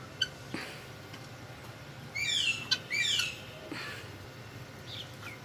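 A bird calling loudly twice, two chirping calls about a second apart, with a few fainter calls and clicks around them.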